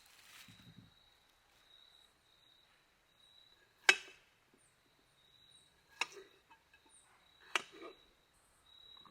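Three sharp knocks, the loudest about four seconds in and the others about two and three and a half seconds later, over a steady high chirping of crickets.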